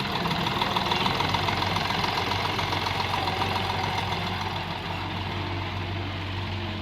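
Heavy diesel engine running steadily, easing off a little about halfway through.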